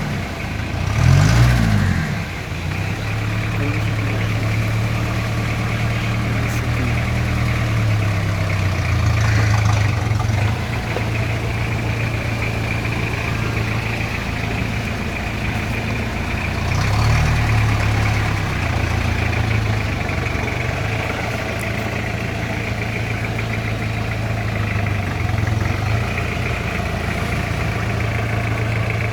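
Willys CJ-5 jeep's engine idling steadily, revved briefly about a second in and again just past the middle.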